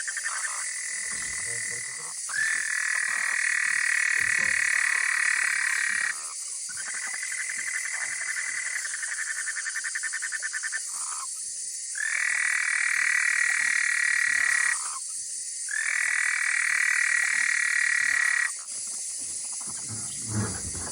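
Frogs calling from the water: a series of long, rapidly pulsed trills, each lasting a few seconds and starting and stopping in turn, over a steady high-pitched background chorus. A low knock sounds near the end.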